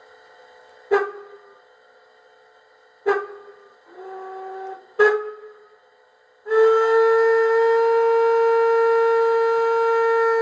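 Sound module of a Piko BR 50 model steam locomotive: three short, sharp sounds with brief ringing tones, then about six seconds in a long, steady steam-whistle blast, played through the model's small speaker.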